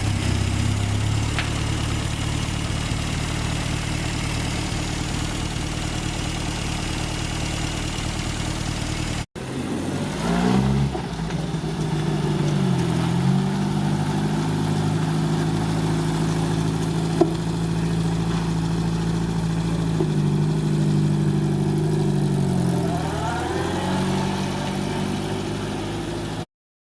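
1959 Triumph TR3A's four-cylinder engine idling steadily, then, after a cut, revved several times, its pitch rising and falling between stretches of steady running.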